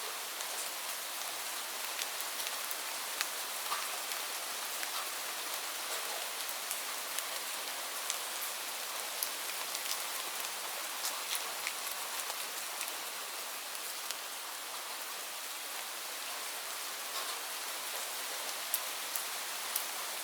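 Steady rain falling, an even hiss with many scattered drops ticking sharply on a surface.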